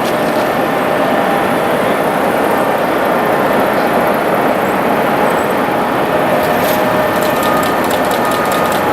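Jet airliner engines: a loud, steady rushing noise with faint steady whining tones in it.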